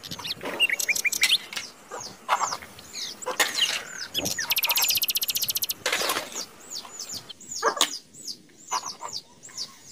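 Small birds chirping over and over in short, high, falling notes, with a fast buzzy rattle lasting about a second around the middle. Mixed in are a few short knocks and scrapes of plastic toy cars being pushed across a tray.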